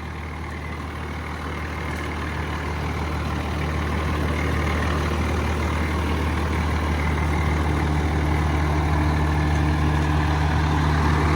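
PACCAR PX-8 diesel engine of a Kenworth T370 truck idling steadily, with a low, even drone that grows gradually louder.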